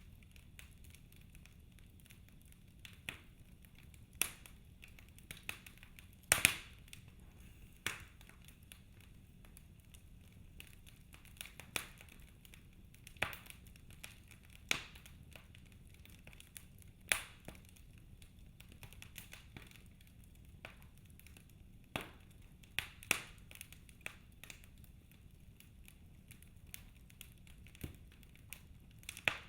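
Wood fire in a fireplace crackling: burning logs give off irregular sharp pops and snaps over a faint steady hiss, one louder double pop about six seconds in.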